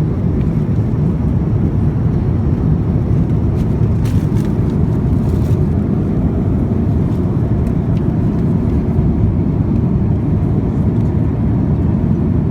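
Steady low rumble of airliner cabin noise inside an Airbus A350-900, the sound of its Rolls-Royce Trent XWB engines and airflow heard from a window seat.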